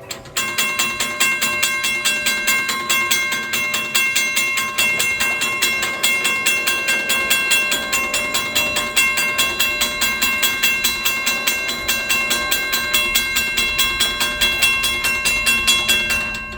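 Railroad grade-crossing warning bell ringing steadily at about four strikes a second. It starts and stops abruptly.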